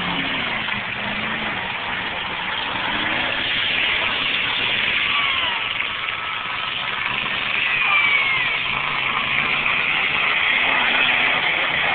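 Demolition derby cars' engines running and revving in the arena over a steady wash of noise, with a few brief gliding whines.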